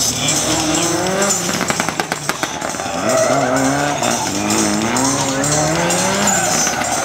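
A gymkhana car's engine revving hard, its pitch sweeping up and down as the throttle is worked through the slides, with a quick stutter of rapid pops about two seconds in.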